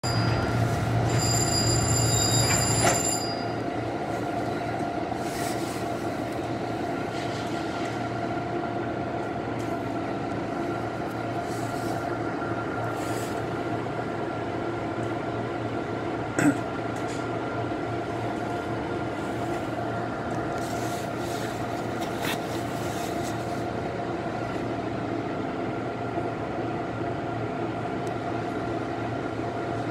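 Metro-North commuter train running slowly, a steady hum with several held tones from its motors and running gear. It is louder for the first three seconds, with one sharp click about halfway through.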